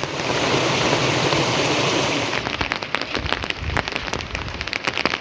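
Rain falling: a steady, dense hiss for the first couple of seconds, then a patter of many separate drops.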